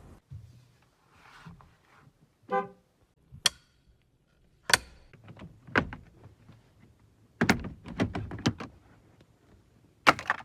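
A short horn toot about two seconds in, then a series of sharp knocks and thunks.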